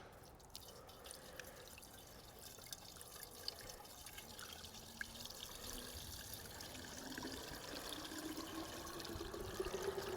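Faint water pouring and trickling into a container, its pitch rising over the last few seconds as it fills.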